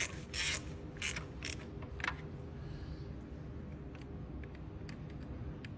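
Handling noises from work in an engine bay: a few short scrapes in the first couple of seconds, then faint scattered clicks over a low steady hum.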